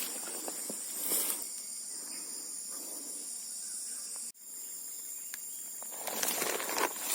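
A steady, high-pitched insect chorus, cut off abruptly for a moment about four seconds in. Near the end, rustling and crackling grow louder over it.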